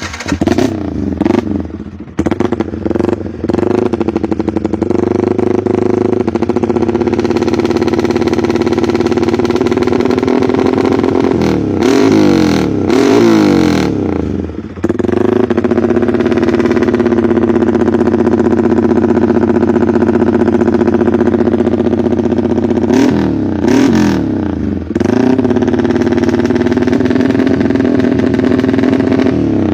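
Yamaha R15 single-cylinder motorcycle engine through a loud aftermarket full exhaust, running steadily and being revved. There are several throttle blips in the first few seconds, again about twelve seconds in, and again about twenty-three seconds in.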